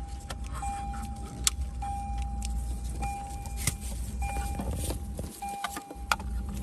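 A Lexus RX's warning chime sounds as one steady tone, repeating about once a second with short breaks, over a low steady hum. Sharp clicks and light rattles of cables and plastic connectors being handled come through it, three of them louder than the rest.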